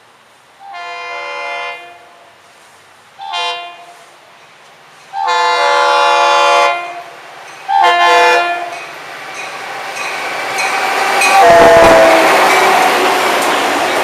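Freight locomotive horn sounding four blasts, long, short, long, short, each a chord of several tones. Then the train approaches and comes past, the engine and wheel-on-rail noise rising to its loudest near the end.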